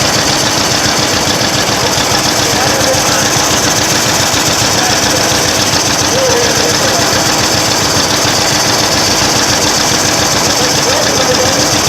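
Old tractor engine running steadily close by, with a rapid, even run of firing pulses. A faint voice is heard behind it.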